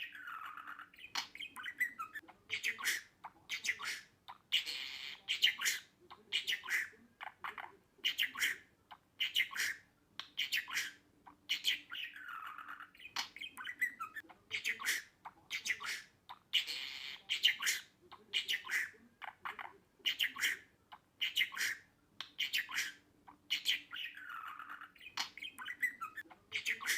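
Budgerigar chirping and chattering: short sharp calls about once or twice a second, with a few longer calls that fall in pitch.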